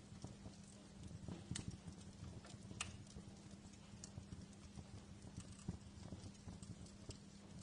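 Wood fire crackling in a fireplace: irregular sharp pops and snaps over a low, steady rumble of burning, with a louder pop about three seconds in.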